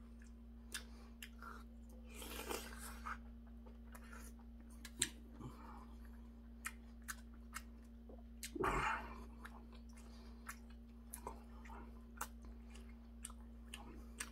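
Close-up chewing and mouth sounds of a man eating seonji gukbap (ox-blood soup with rice) by the spoonful, with scattered short sharp clicks. Twice, about two and nine seconds in, there is a longer hissing sound.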